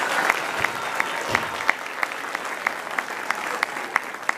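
Audience applauding after a song, the clapping thinning out and fading until only scattered individual claps are left.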